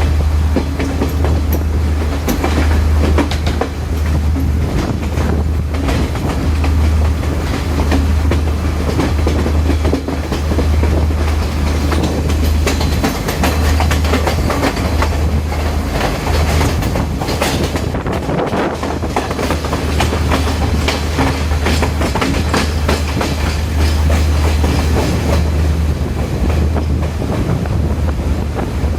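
Chinese-built 2019 diesel multiple-unit express train running at speed: a steady low rumble with wheels clicking and clattering over the rail joints, briefly louder and sharper about two-thirds of the way through.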